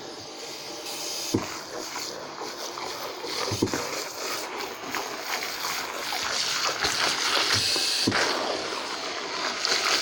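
Water splashing and running in a bathtub during a dog's bath, growing louder after the first few seconds, with a few light knocks.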